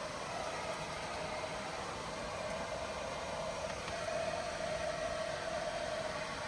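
Heavy rain falling steadily on a small van, heard as an even hiss without a break.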